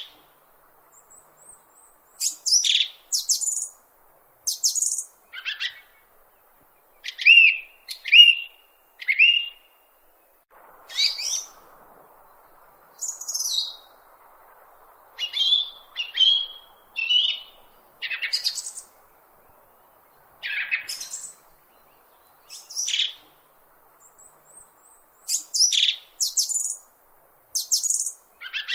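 Small bird chirping: short high calls, some sweeping up or down in pitch, coming in scattered groups with brief silent gaps between them.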